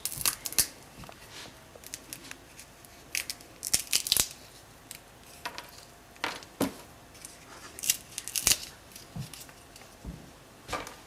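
Irregular dry crackles and snaps of monkey nuts (peanuts in the shell) and their shells being broken and handled, in small clusters with short pauses between.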